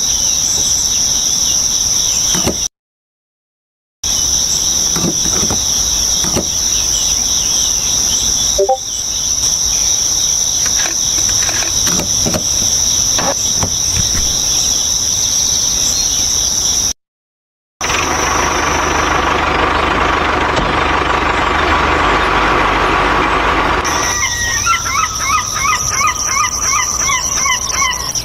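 Steady high-pitched insect chirring that cuts out briefly twice. After the second break a rougher steady hiss with a hum takes over for several seconds. Then the chirring returns, with a run of short repeated chirps near the end.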